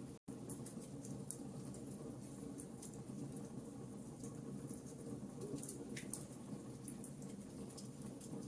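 Wood fire crackling in a fireplace: frequent small sharp snaps and pops over a steady low rumble of the burning fire. The sound cuts out for an instant just after the start.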